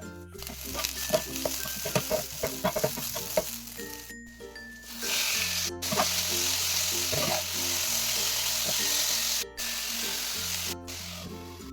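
Chicken frying in hot oil in a pan, sizzling steadily, with many sharp crackles and clicks of stirring in the first few seconds and a louder, fuller sizzle from about five seconds in. Background music plays underneath.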